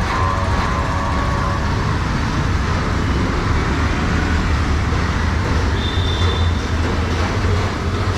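Busy street traffic on a rain-wet road: a steady low engine rumble under a hiss of tyres and rain. A brief steady tone sounds for about a second and a half at the start, and a short high-pitched tone comes about six seconds in.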